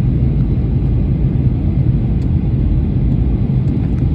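Steady low rumble of an airliner's engines and rushing air, heard from inside the passenger cabin in flight.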